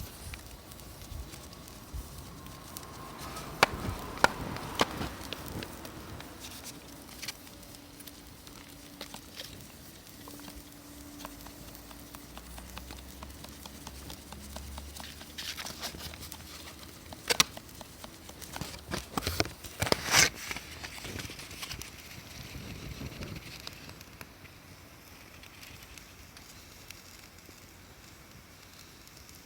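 Campfire crackling, with irregular sharp pops, a few of them much louder than the rest.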